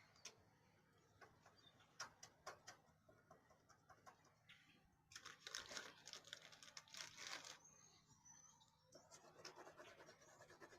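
Faint crayon scribbling on paper: a few light taps, then a patch of quick scratchy strokes about five to seven seconds in. From about eight seconds in, a small bird chirps faintly with repeated short high chirps.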